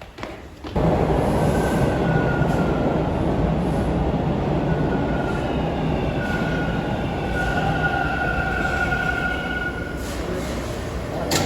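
Train running on rails: a steady rumble with drawn-out high wheel squeals. It cuts in suddenly about a second in and stops abruptly near the end.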